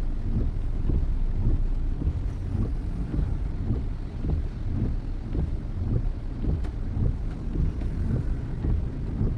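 Steady low road and engine rumble inside a moving car's cabin, with wind buffeting the microphone.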